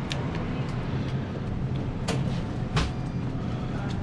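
A steady low hum with three sharp clicks or taps, from items being handled at a shop counter during a purchase.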